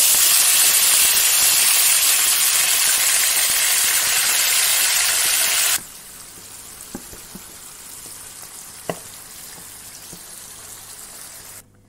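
Marinated beef pieces sizzling loudly as they hit hot oil in a pan. The sizzle cuts off sharply about six seconds in, leaving a faint steady hiss and a couple of light taps of a wooden spatula.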